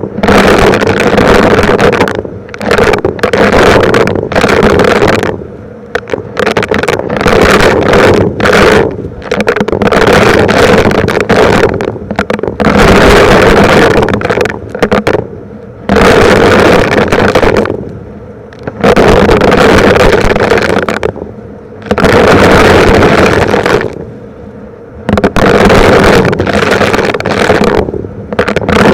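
Vacuum cleaner running with a steady motor hum, its suction noise surging loud and easing back every second or two as it is worked over small rocks.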